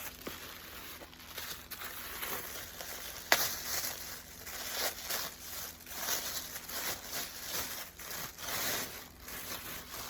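Packaging rustling and crinkling as items are rummaged through in a box, with a single sharp click about a third of the way in.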